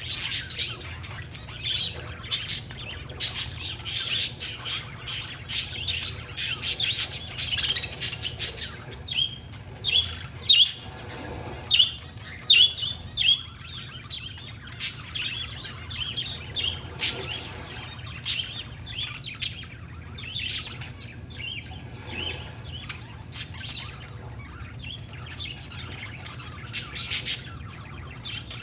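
Parakeets and zebra finches chirping: many short, high calls overlapping, densest in the first eight seconds or so, then coming more sparsely.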